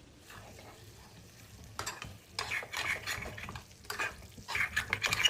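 Food frying in hot oil while a utensil stirs and scrapes through it in a run of irregular strokes that start about two seconds in and grow louder toward the end.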